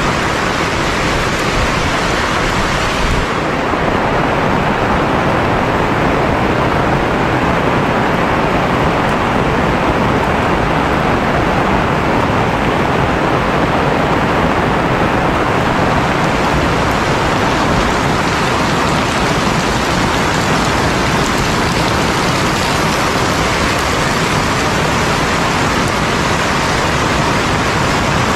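Heavy rain pouring steadily, a dense, even hiss. From a few seconds in until about halfway through, the sharpest high part of the hiss fades, then returns.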